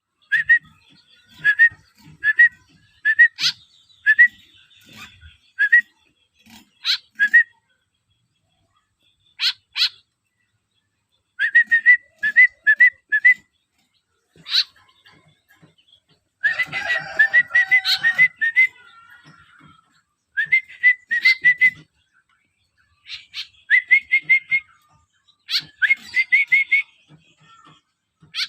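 Hand-reared young white-breasted woodswallow (kekep) calling: short rising chirps in runs of three to six, with a denser, harsher stretch of calling about seventeen seconds in.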